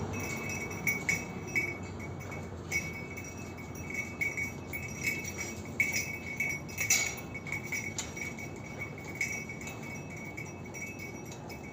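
Light, high-pitched clinks and jingles coming irregularly, sometimes several close together, over a quiet steady background.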